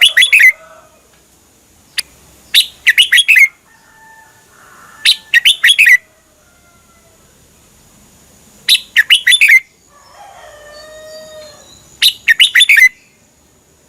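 Red-whiskered bulbul singing short bursts of quick, bright whistled notes, five phrases repeated about every three seconds, with softer, lower calls between some of them.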